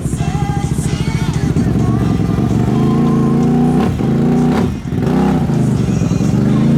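Large mud bogging vehicle's engine revving hard under load, its pitch climbing and falling, with the throttle briefly let off about four and five seconds in.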